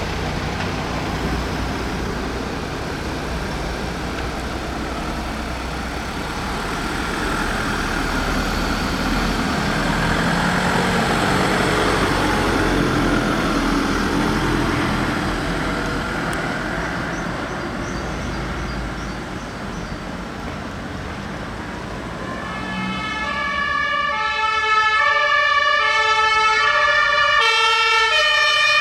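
Fire engine running, with a noisy rumble. Near the end a two-tone siren starts, alternating between two pitches, and becomes the loudest sound.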